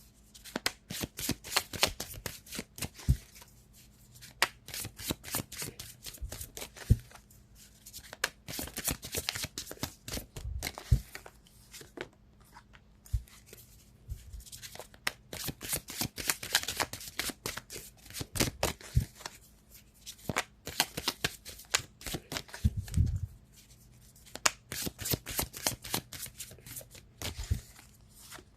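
A deck of divination cards being shuffled by hand: spells of rapid card flicking and tapping, separated by short pauses.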